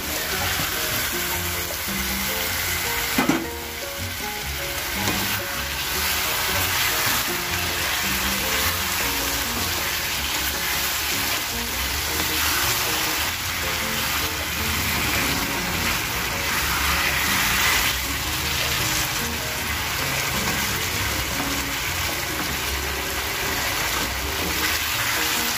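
Marinated chicken pieces sizzling as they fry in ghee and spice paste in a kadai, with a sharp knock about three seconds in.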